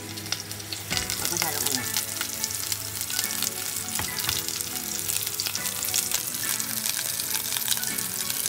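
Garlic, onion and whole bitter gourds sizzling in hot olive oil in a pot, a dense crackle that grows louder about a second in.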